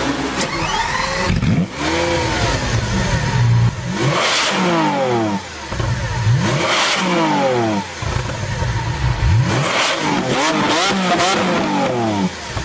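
A high-performance car engine revving and accelerating, its pitch sweeping up and falling away several times, with quick rising-and-falling blips near the end.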